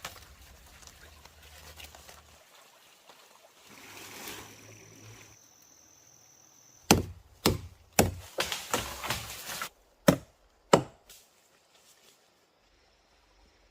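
Chopping: a blade striking wood, six quick blows a little over half a second apart about halfway through, then two more spaced blows.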